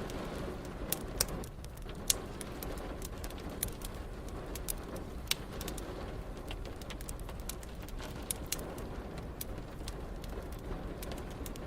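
Wood fire crackling, with irregular sharp pops and snaps, the loudest about a second and two seconds in, over a steady hiss of rain.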